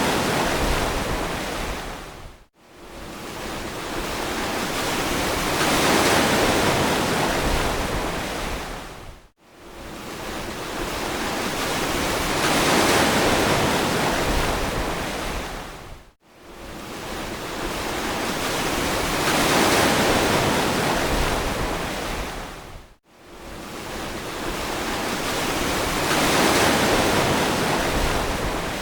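Ocean surf: a steady wash of breaking waves that swells and eases, broken by a brief, abrupt dropout to near silence about every seven seconds.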